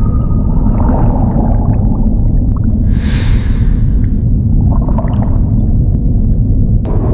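Deep, steady rumbling drone with breathy, hissing gusts, the loudest about three seconds in.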